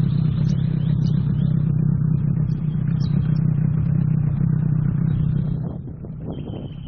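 A boat motor running at a steady low hum, then dropping to a quieter, lower setting near the end as it is throttled back.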